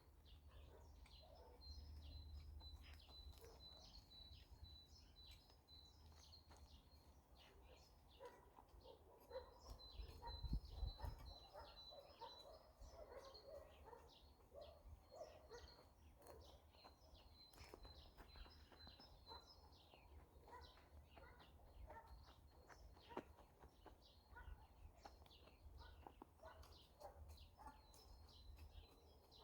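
Faint birdsong: a bird repeating runs of rapid, high, even notes again and again, with scattered soft clicks and a brief low rumble about ten seconds in.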